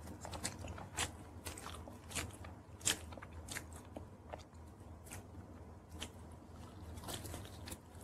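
Close-miked chewing and crunching of pizza crust, with irregular crisp crunches and small mouth clicks; the loudest crunch comes about three seconds in.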